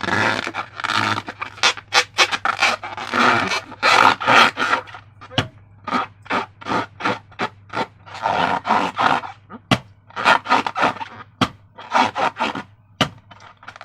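Slime being squished and squeezed by hand: a quick, irregular run of squishes and sharp clicks, several a second, with short pauses.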